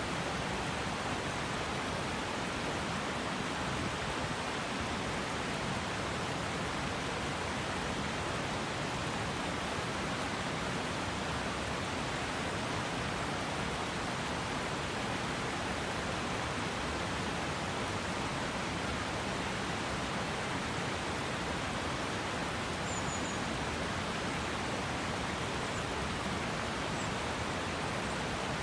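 The water of the Okurushibe River, a mountain river, flowing as an even, unbroken water noise.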